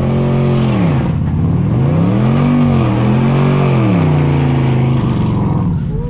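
Car engine revving hard at a car meet: the revs drop about a second in, climb, dip briefly and climb again, then fall and hold at a steady lower pitch.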